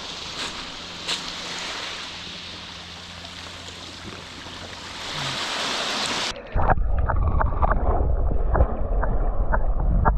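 Sea water rushing and splashing around a kayak, with a few small splashes. About six seconds in the sound cuts suddenly to loud wind buffeting the microphone, with splashes still audible.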